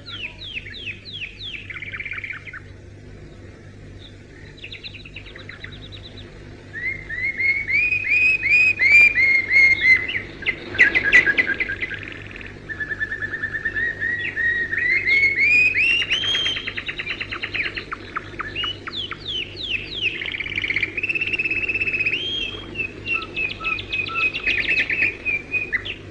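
Birds chirping and calling, with fast trills and rising whistled glides, over a steady low hum.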